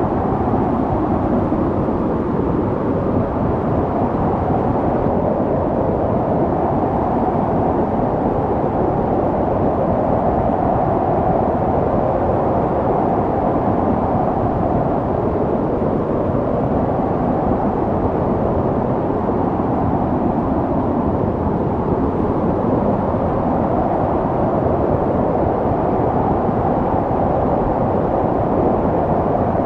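Snowstorm wind blowing steadily, a dense rushing noise that slowly swells and eases.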